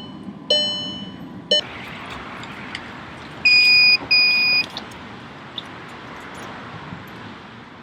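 Electronic beeps: a tone with overtones lasting about a second, then, about three and a half seconds in, two loud high beeps in quick succession, each about half a second long, over steady background noise.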